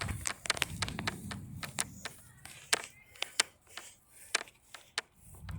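Irregular sharp clicks and taps, a few per second, over a low rumble that fades out in the first second or so.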